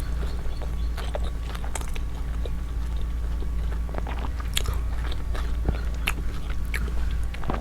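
Close-miked chewing of a buff momo dumpling: soft wet mouth smacks and small irregular clicks as the first bite is chewed.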